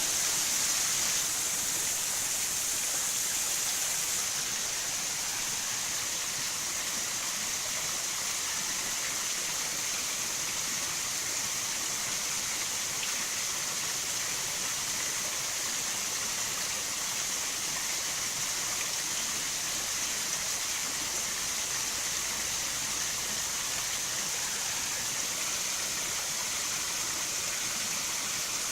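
Chisuji Falls, a low, wide waterfall of many thin cascades, splashing steadily in an even rush of falling water.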